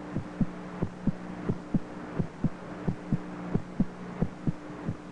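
A heartbeat demonstrating a normal human heart rate: steady double thumps (lub-dub), about one and a half beats a second, over a steady low hum.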